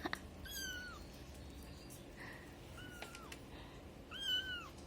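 A kitten mewing three times: short, high-pitched calls that drop in pitch at the end, the last one the loudest.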